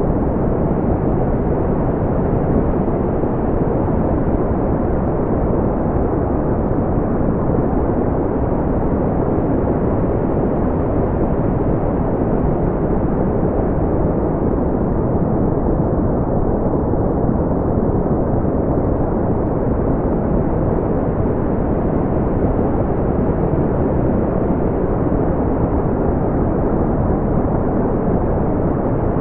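Steady, unchanging brown noise: a deep, smoothed rumbling hiss with most of its energy in the low range and little above the upper mids.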